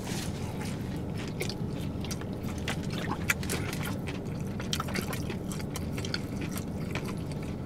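People chewing a fried-chicken and Takis sandwich, with many small scattered clicks over a steady low hum.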